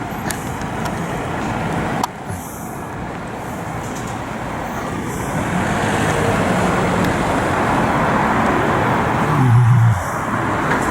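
Street traffic noise, growing steadily louder for several seconds as a vehicle draws near, then dropping just before the end.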